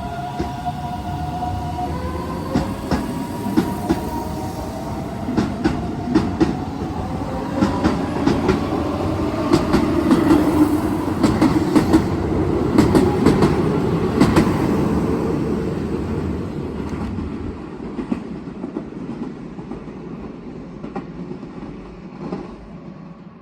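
Keihan 7200-series electric train pulling out. Its traction motors whine, rising in pitch over the first few seconds, then the wheels clack over the rail joints as the cars roll past, loudest about halfway. The sound then fades as the train leaves.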